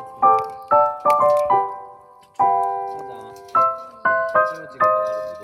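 Background piano music: a slow tune of struck notes and chords, each ringing and fading before the next.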